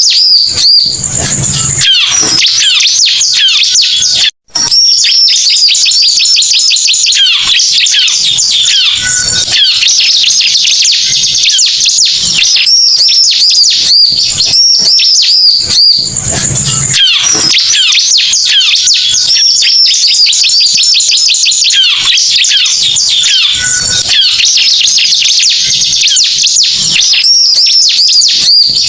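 Bar-winged prinia (ciblek) lure call playing loud and continuous: dense, fast, high chirps and trills repeating without pause, with a brief silent dropout about four seconds in.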